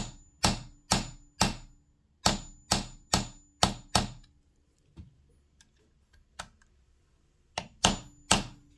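Sharp taps, about two a second, each with a short ring, pause for a few seconds in the middle, then resume. They come from the sewing machine's cam spindle being tapped down to seat it as low as it will go.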